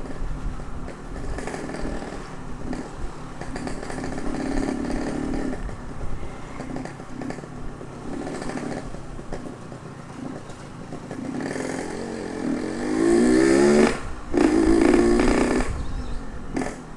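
Ported Yamaha RX-King 135's air-cooled two-stroke single engine, ridden. Its note climbs sharply as it revs up about twelve seconds in. It dips briefly, as at a gear change, then runs loud again before easing off near the end.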